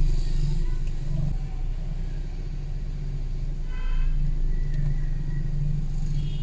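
Steady low rumble of a car's engine and road noise heard from inside the cabin while it drives slowly, with a short faint tone about four seconds in.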